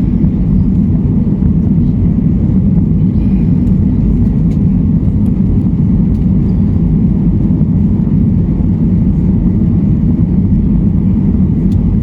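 Steady low rumble of engine and airflow noise inside a Boeing 737 passenger cabin during departure, with a few faint light rattles.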